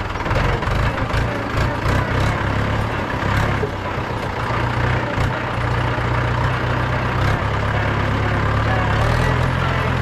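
Mahindra 475 DI tractor's 2730 cc four-cylinder diesel engine running steadily with a low, even drone, and some knocks and rattles through the first half.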